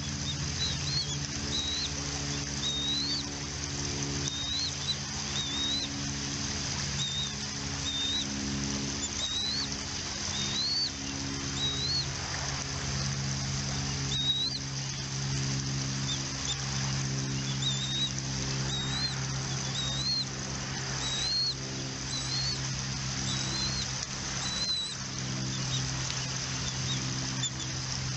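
Bald eagles chirping: a steady series of short, high, upslurred chirps, about one a second, over a steady low hum.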